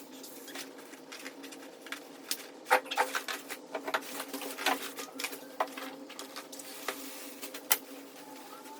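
Nylon sleeping bag and inflatable sleeping pad rustling and crinkling as someone climbs in and settles, in irregular sharp crackly clicks over a faint steady hum.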